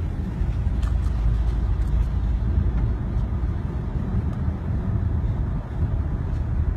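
Strong storm wind buffeting the microphone: a steady, loud low rumble, with a few faint clicks.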